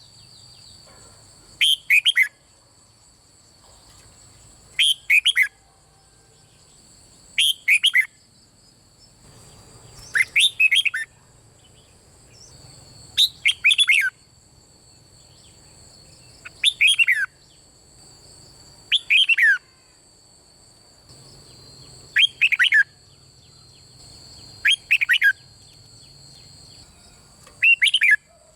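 Red-whiskered bulbul singing short, bright whistled phrases, about ten in all, each under a second and repeated every two and a half to three seconds. A steady high-pitched whine runs underneath.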